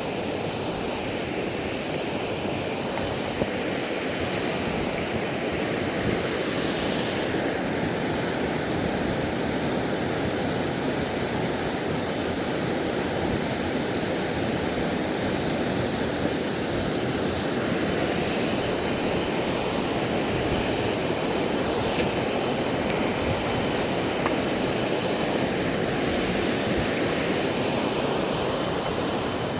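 A river's water rushing steadily, an even roar with no pauses.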